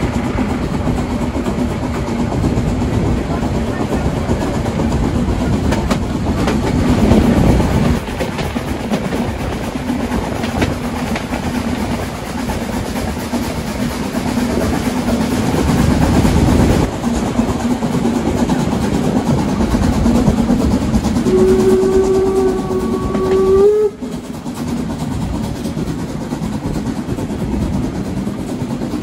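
Narrow-gauge steam train running on the Brocken line, with steady rolling and working noise. About three quarters of the way through, the locomotive's steam whistle sounds one blast of a couple of seconds, rising slightly in pitch before it cuts off.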